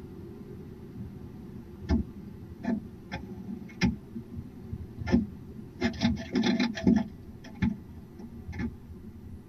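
Sharp knocks and scraping clicks on a wooden barn owl nest box, as owls move about on it. They come one at a time from about two seconds in, then in a quick scratchy flurry about six seconds in, over a steady low hum.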